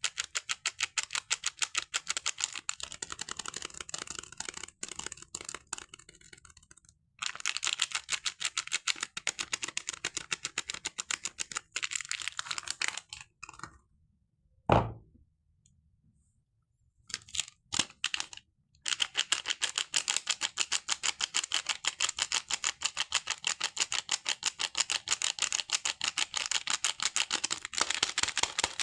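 Rapid, crisp clicking in long even runs, many clicks a second, from a bar of soap and its wrapping being peeled and handled close to the microphone. The clicking stops twice, and one loud knock comes about halfway through.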